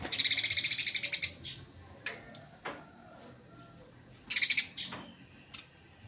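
Eurasian tree sparrow giving a harsh, rapid chattering call, the 'nyecret' chatter of a fighting sparrow. There is a loud burst of about a second at the start, a few single chirps, and a second, shorter burst about four seconds in.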